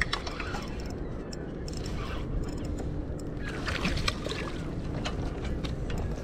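Water lapping and sloshing against a kayak hull, with scattered small knocks and splashes.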